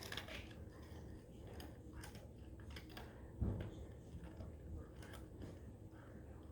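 Faint crunching clicks of dogs chewing treats, with one louder low thump about three and a half seconds in.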